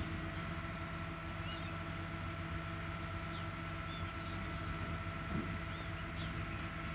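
Garbage truck's engine running at a steady, even hum. Several short high chirps of birds sound over it.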